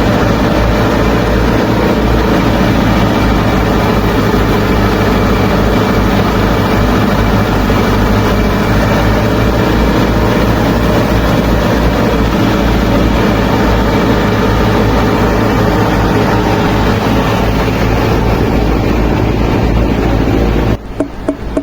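A tractor-type engine running steadily with a deep, even drone. It cuts off suddenly near the end, replaced by rhythmic background music.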